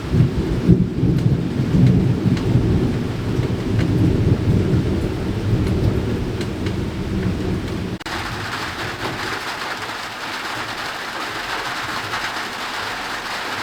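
Thunder rumbling over rain for about eight seconds, then the sound cuts abruptly to steady rain.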